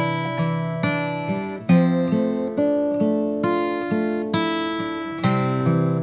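Acoustic guitar music, plucked and strummed chords ringing out and decaying, a new chord roughly every second.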